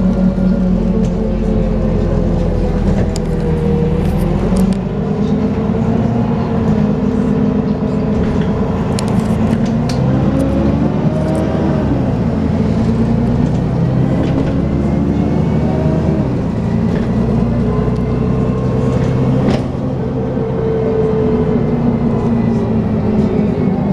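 Dennis Trident 2 double-decker bus running, its engine note mixed with a whining, vacuum-cleaner-like 'hoover' tone that rises and falls several times as the bus speeds up and slows.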